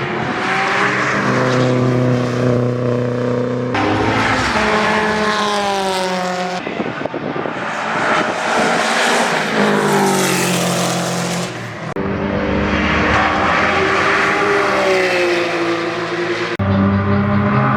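Race car engines revving, their pitch climbing and dropping, over a steady hiss of tyre noise. It comes as several short track shots cut together, so the sound changes abruptly every few seconds.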